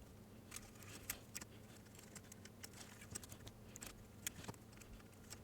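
Faint, irregular light clicks and taps of small parts and tools being handled, over a low steady hum.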